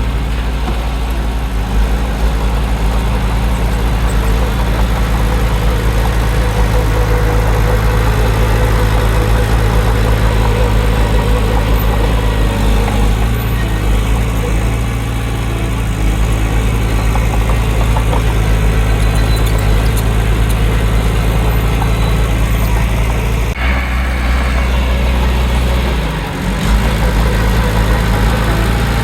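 Heavy earthmoving machine's diesel engine running steadily. The sound changes abruptly about 23 seconds in, with a short dip a little later.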